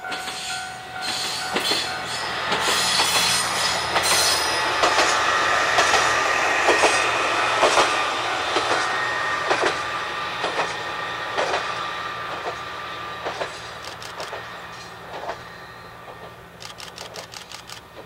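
Single-car diesel railcar running along the line, its wheels clicking regularly over the rail joints. It swells to its loudest a few seconds in, then slowly fades, with a quick run of clicks near the end.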